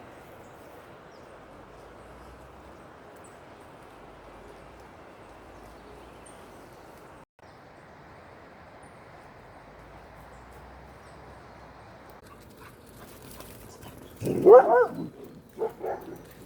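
A steady low hiss, then near the end a dog gives one loud bark with a bending, whining pitch, followed by two shorter, quieter barks.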